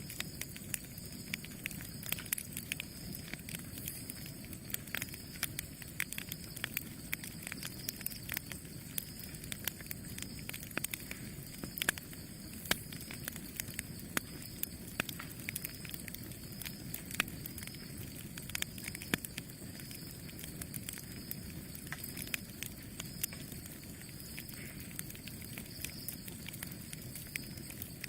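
Campfire burning: a steady low rush of flames with frequent sharp, irregular crackles and pops from the burning wood.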